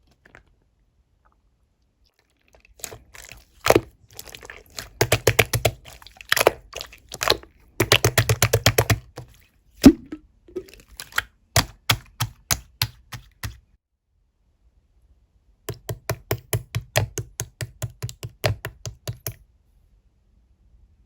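Clear slime being pressed and squished by hand, giving runs of quick crackling clicks and pops as trapped air bubbles burst; three bursts with short pauses between them.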